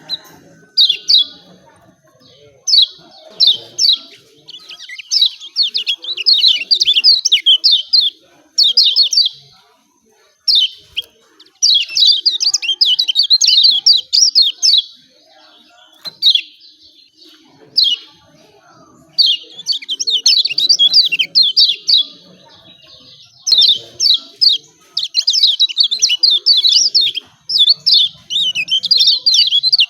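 Lemon-bellied white-eye (kecial kuning) giving its fast, high 'ciak ciak' chattering calls in bursts of one to three seconds, separated by short pauses.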